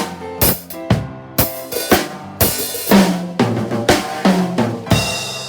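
Drum kit playing a reggae groove, with bass drum, snare and rimshot hits about twice a second, over piano accompaniment. About five seconds in comes a last hit that is left ringing with the piano and fades.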